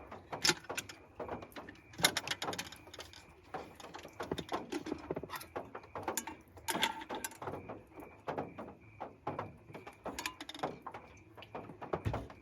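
Irregular clicks and knocks, a few of them sharp, over a faint steady high-pitched tone.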